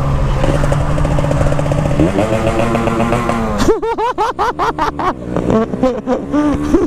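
Two-stroke motorcycle engine running at a steady note, climbing in pitch about two seconds in, then revved in quick repeated throttle blips, each rising and falling, through the second half.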